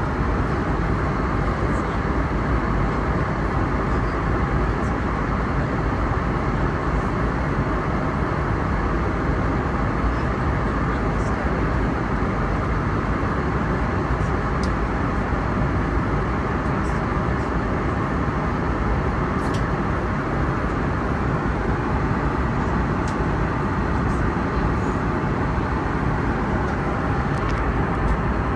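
Steady cabin noise inside an Airbus A321neo airliner: an even rush of airflow and engine noise, with a few faint ticks.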